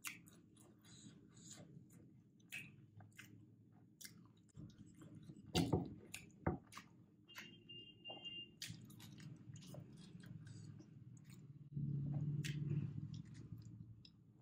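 Close-miked chewing of a paneer tikka stuffed wrap, with wet mouth clicks and a louder bite sound about five and a half seconds in. A brief steady low hum rises over the chewing about twelve seconds in.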